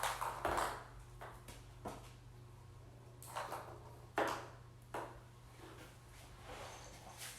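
Kittens at play with their toys: a brief scuffle at the start, then scattered light knocks and rattles, loudest a little past the middle, as rattle-filled plastic Easter eggs are batted about.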